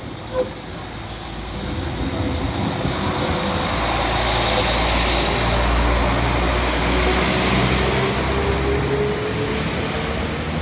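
Diesel multiple-unit passenger train passing close by, growing louder over the first few seconds, with engine and wheel noise and a high whine that rises in pitch in the second half.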